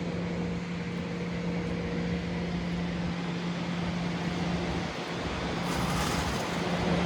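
Street traffic and engine noise at a busy city intersection: a steady engine drone under a constant rumble of passing vehicles, with a brief hiss about six seconds in.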